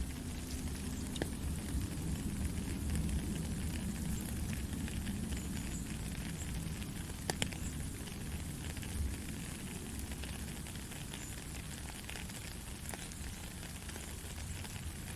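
Steady gentle rain falling, a continuous hiss with scattered sharper drop clicks, the most distinct about seven seconds in.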